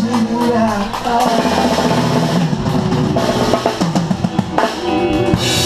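Live band playing, with the drum kit to the fore: a run of quick snare and bass drum hits over held bass and guitar notes, about two thirds of the way through.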